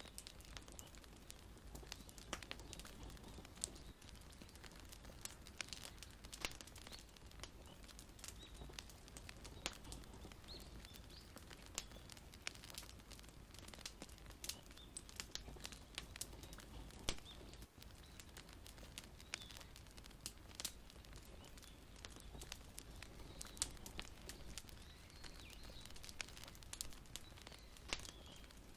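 Wood fire crackling: irregular sharp pops and snaps, several a second, over a soft steady low hiss.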